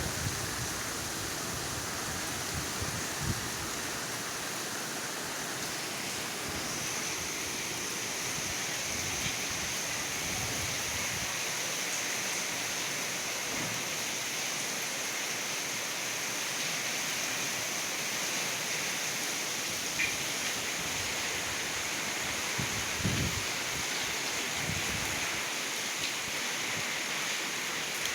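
Steady rain falling, an even hiss, with a few soft low knocks now and then.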